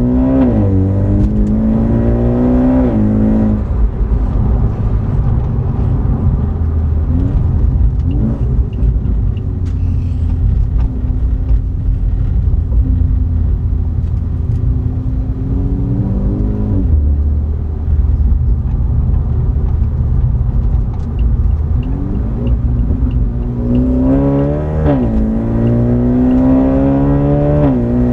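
BMW 330i's B48 2.0-litre turbocharged four-cylinder with a modified exhaust pulling up through the gears, its pitch climbing and dropping back at each upshift, then cruising with a steady low drone. It accelerates through the gears again near the end.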